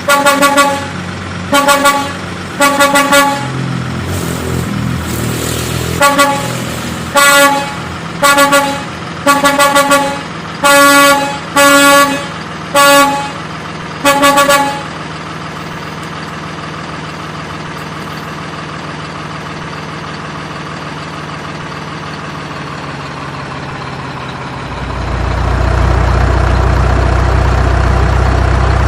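Truck horn honking in about a dozen short blasts over a steady engine hum. About 25 s in, a deeper, louder engine idle takes over and runs steadily.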